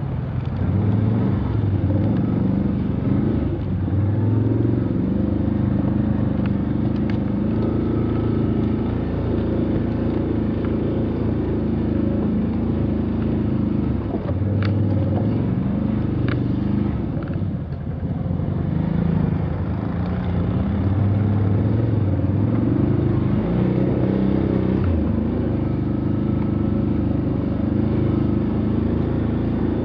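Motor vehicle engine running under load, its pitch rising and falling with the throttle as it drives.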